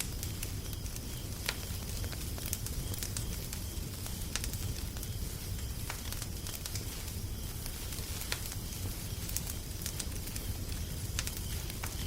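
Wood fire crackling: a steady low rumble and hiss with irregular sharp pops and snaps.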